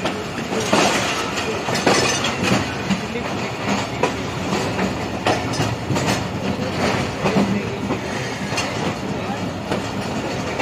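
Passenger train coach rolling slowly through a station, its wheels clattering irregularly over rail joints and points.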